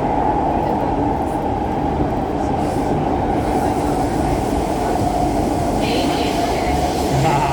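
Siemens C651 metro train heard from inside the car while running: a steady low rumble with a constant whine above it, and a hiss joining in about six seconds in.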